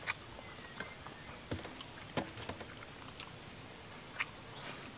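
Eating sounds: a person chewing, with a few sharp mouth smacks and clicks spaced a second or two apart. A faint, steady, high-pitched whine sits underneath.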